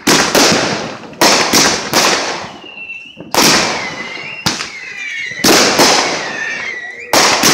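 Aerial fireworks shells from a multi-shot cake going off one after another, a sharp bang about every second, each followed by a short crackling tail.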